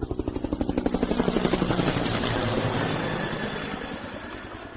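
Helicopter rotor beating in fast, regular pulses. It grows louder over the first second or two, then slowly fades.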